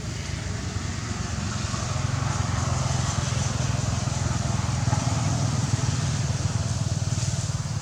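An engine running steadily with a low, rapid pulsing rumble, growing a little louder through the middle and easing off near the end.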